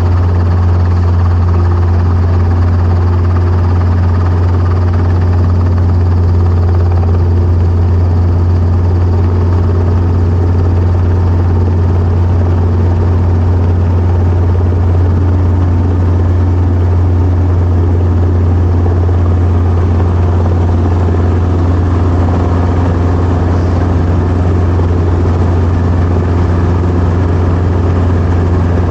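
Helicopter engine and rotor running steadily through a hover pick-up and set-down: a loud constant low drone with no change in pitch.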